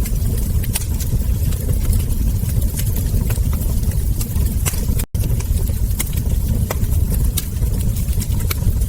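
Wood fire crackling, with frequent sharp pops of burning logs and embers over a steady low rumble. The sound cuts out for an instant about five seconds in.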